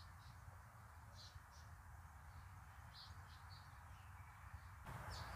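Near silence with faint, short, high bird chirps scattered through the first few seconds.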